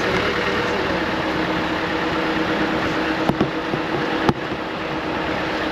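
Land Rover Defender 110's engine running steadily, heard from inside the cab, with two sharp knocks about a second apart past the middle.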